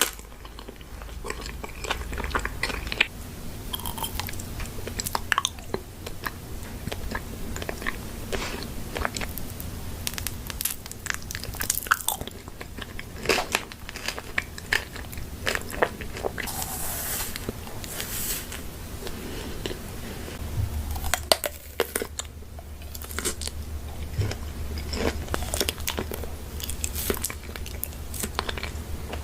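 Close-miked eating: crunchy bites and chewing, with many sharp, irregular crackles throughout.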